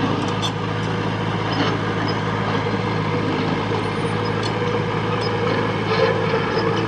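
Diesel engine of heavy earthmoving machinery running steadily, with a few light clanks and clicks over it.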